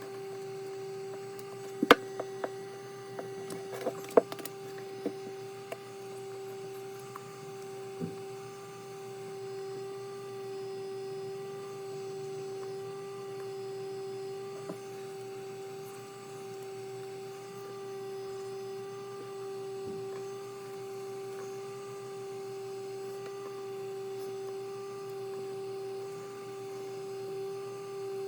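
A steady electrical hum on one pitch with fainter overtones, with a few sharp clicks and knocks in the first several seconds.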